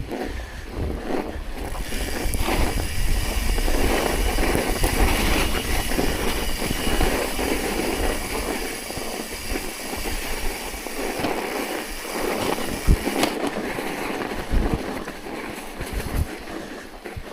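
Continuous rough noise of riding over snow, with wind gusting on the microphone and a sharp knock about thirteen seconds in.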